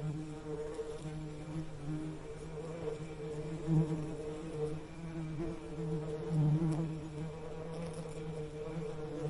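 Bees buzzing: a steady, wavering drone that swells louder briefly about four seconds in and again about six and a half seconds in.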